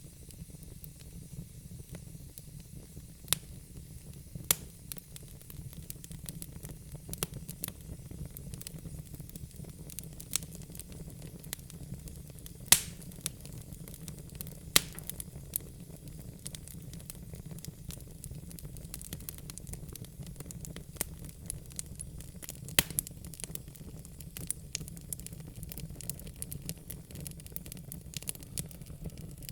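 Log fire in a fireplace crackling: irregular sharp pops and snaps over a steady low rumble of the burning wood, with one louder pop about halfway through.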